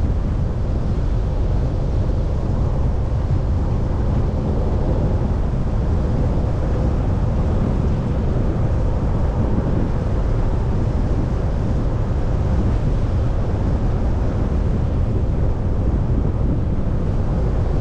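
Steady low rumble of a vehicle driving: tyre and engine noise heard from inside the cab through a dash cam, even throughout with no sudden sounds.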